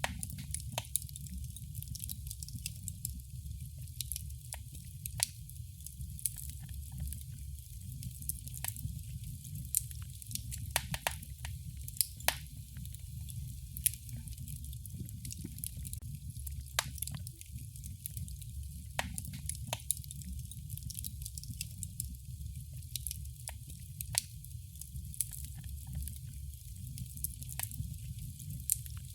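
Fire burning in a fireplace, crackling with frequent irregular sharp pops and snaps over a steady low rumble and a soft hiss.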